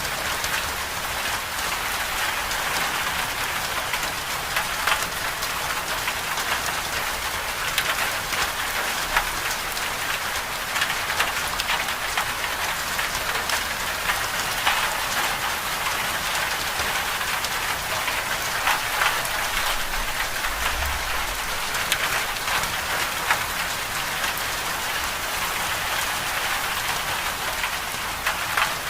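Steady medium rain falling on a hard surface, with many separate drops ticking sharply through the constant hiss.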